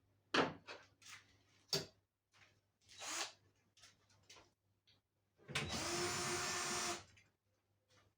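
Several handling clicks and knocks, then an electric drill-driver runs steadily for about a second and a half, as when driving out a screw while taking the dryer apart.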